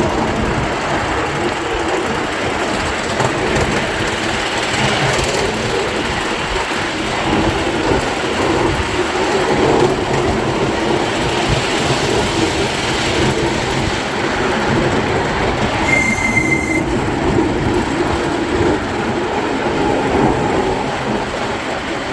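Miniature ride-on railway train running along its track, heard from aboard: a steady rumble and clatter of wheels on rails. About sixteen seconds in there is a short high-pitched squeal.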